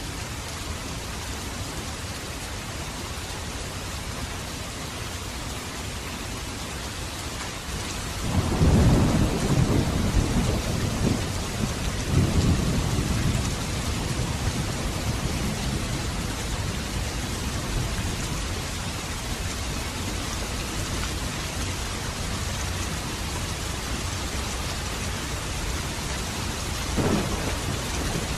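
Steady rain falling, with a roll of thunder that breaks in about eight seconds in, rumbles for several seconds with a second swell, then fades back under the rain; a brief low rumble comes near the end.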